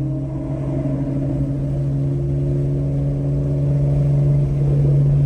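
Car engine and exhaust droning at a steady pitch, as at a constant cruise, gradually getting louder over the last few seconds.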